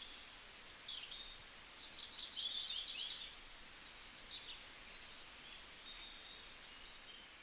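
Small birds chirping and twittering: quick high chirps, short sweeping notes and rapid trills, thickest about two to three seconds in, over a faint steady hiss.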